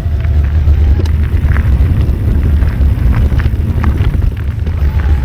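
Wind buffeting the microphone as a loud, steady low rumble while riding a mountain bike on a dirt trail, with scattered clicks and rattles from the bike over rough ground.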